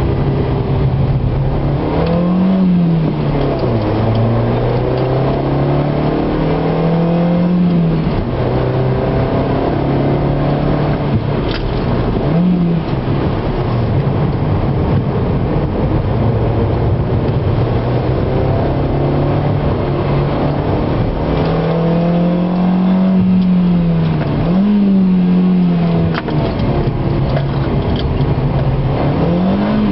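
Car engine heard from inside the cabin while lapping a circuit, its pitch climbing as the car accelerates and dropping sharply at gear changes about four times, over steady road and tyre noise.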